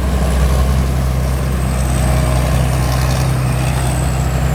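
A 270-horsepower combine harvester running steadily while harvesting rice: a constant low engine and machinery drone with a faint high whine above it.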